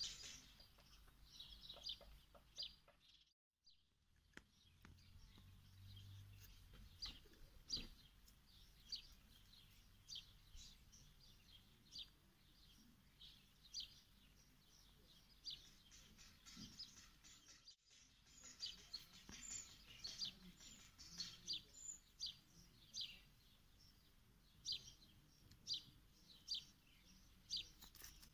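Faint birdsong: small birds giving short, high chirps, repeated every second or so.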